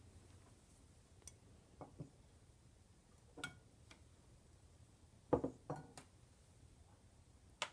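Small metal tool parts handled and set down: about eight scattered light clinks and knocks, a double knock a little past five seconds in the loudest, one more near the end.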